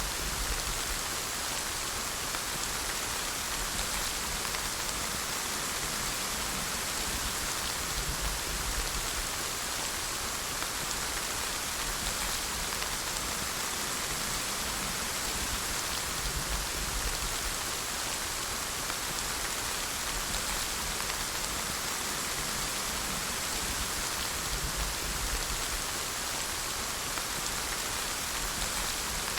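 Steady rain falling, an even hiss of drops on a surface with no pauses or thunder.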